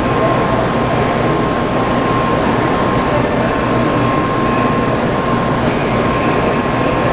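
JR West N700-series shinkansen train running out of the station on departure, a steady loud rushing rumble with a thin, steady high whine over it.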